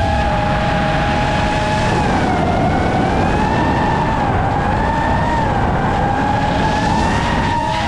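Electric motors and propellers of an FPV racing drone whining in flight, the pitch wandering up and down with the throttle, over a steady rush of wind noise.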